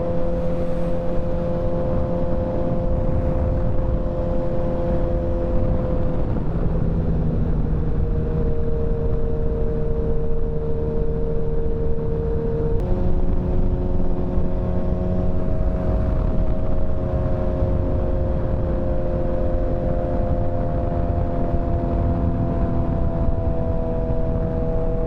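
Motorcycle engine running at a steady cruise, with low wind and road rumble. The engine note dips slightly about six seconds in and steps up sharply about thirteen seconds in.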